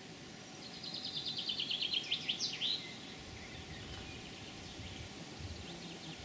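A songbird singing one song: a fast trill of repeated high notes that ends in a short flourish of quick sweeps, followed by fainter high calls, over steady outdoor background noise.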